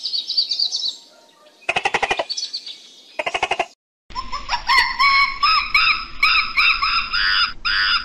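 Animal calls: two bursts of a fast rattling trill, then from about four seconds a quick run of short, high chirping notes repeated several times a second.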